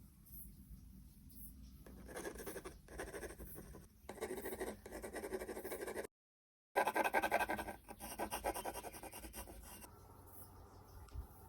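Pencil scratching on paper in quick repeated strokes, starting about two seconds in. It breaks off for a moment just after six seconds, then resumes at its loudest before easing off near the end.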